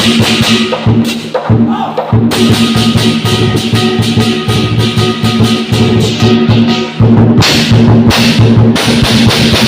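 Lion dance percussion: a big drum beaten in a fast, driving rhythm with crashing cymbals, briefly dropping out about a second and a half in and again about seven seconds in.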